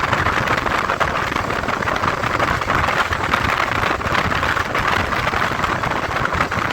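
Steady rushing noise of a motorcycle on the move, with wind, road and engine sound blended into an even hiss and no clear engine note.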